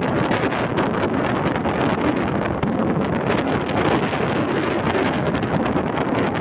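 Strong wind blowing across the microphone, a steady loud rush of noise.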